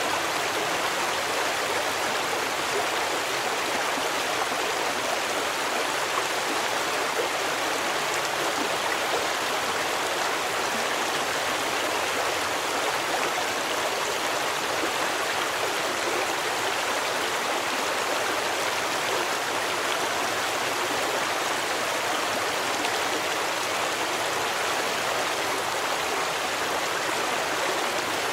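Stream water running and splashing over rocks in a steady, unbroken rush.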